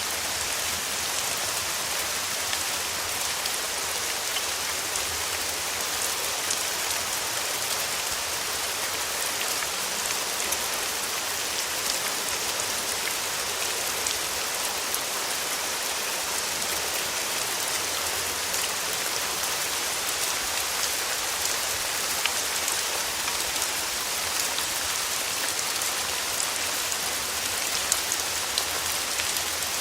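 Steady rain falling on a surface, an even hiss with scattered individual drops ticking throughout.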